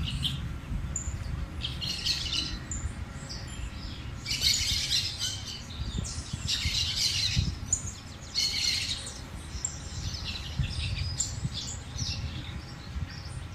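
Songbirds chirping in short bursts of song that come back about every two seconds, over a low, uneven rumble.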